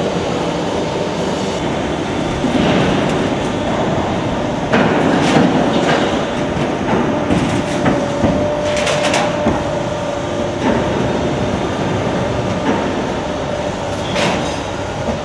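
Automatic HVAC duct production line running: a steady mechanical rumble of sheet-metal machinery with repeated sharp metal clanks and knocks, several in quick succession through the middle and another near the end.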